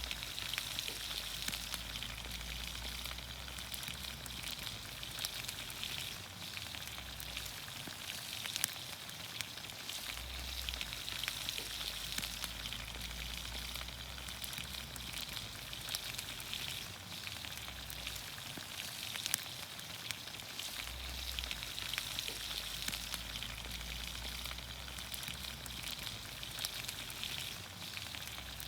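Vegetables frying in olive oil over a campfire: a steady sizzling hiss with frequent small pops and crackles scattered through it.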